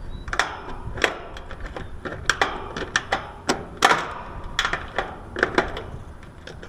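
Irregular sharp clicks and small metallic taps of start-wire spade connectors being pulled off air-conditioner capacitor terminals, with the loudest click a little past the middle.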